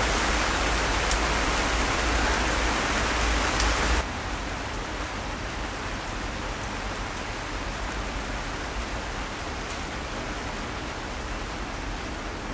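Steady hiss of rain falling on a fabric shelter, dropping abruptly to a lower level about four seconds in, with a couple of faint clicks.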